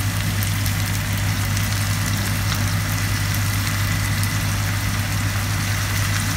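Vegetables frying in a pan with a light, even crackle, over a steady low hum.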